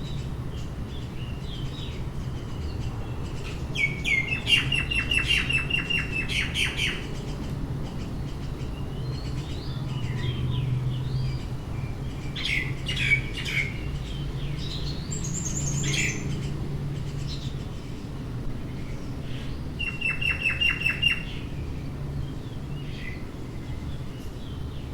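Small birds chirping and twittering, with two bursts of rapid trilled notes, one about four seconds in and one about twenty seconds in, over a steady low background hum.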